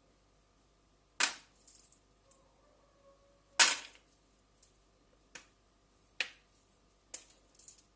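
Four sharp knocks or clacks at irregular intervals, with a few fainter taps between them; the second is the loudest.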